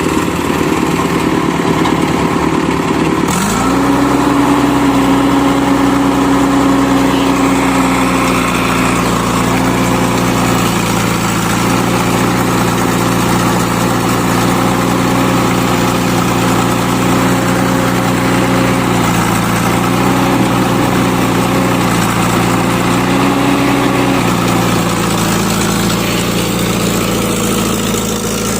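Diesel engine of heavy earth-moving machinery running steadily. About three seconds in it steps up to a higher speed, then holds there with small rises and falls in pitch.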